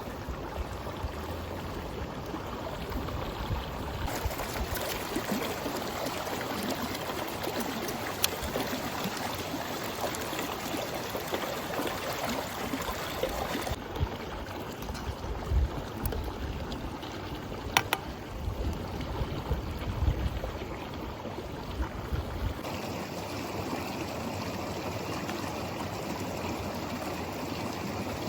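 Stream water flowing steadily, with a few sharp clicks or knocks here and there.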